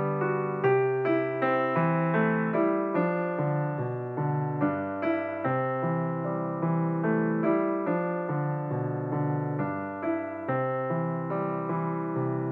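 Solo piano music: a slow melody of struck notes over steady bass notes, with no singing.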